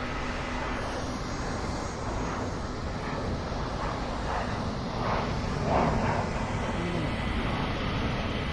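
Jet airliner engines running at an airport, a steady, even rushing noise.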